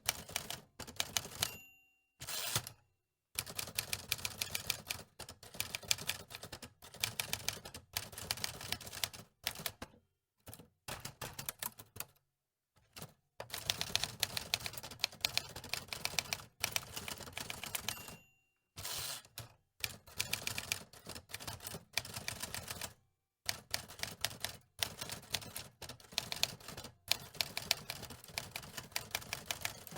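Manual typewriter being typed on in quick bursts of key strikes, each run lasting a few seconds and broken by short pauses. A few times a short high ding sounds, the carriage-return margin bell.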